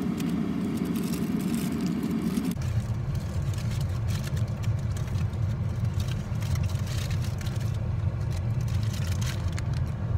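Steady low rumble of a car on the move, with light rattles and clicks over it. About two and a half seconds in, the rumble drops abruptly to a deeper tone.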